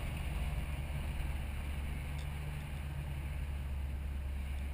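Fox-body Mustang's V8 running steadily at cruise, a low engine note with road and wind noise heard from inside the car.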